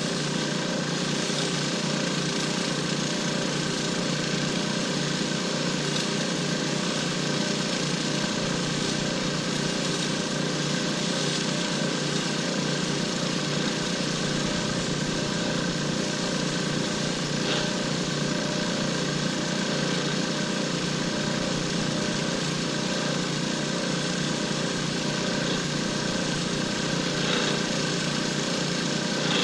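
Lathe running steadily while a cast shifter-knob blank is turned down, a constant motor hum with the even hiss of cutting and a few faint ticks.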